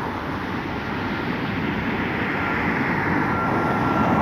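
Boeing 737 MAX 9's CFM LEAP-1B jet engines running, a steady rushing noise that grows gradually louder, with a thin steady whine coming in about three seconds in.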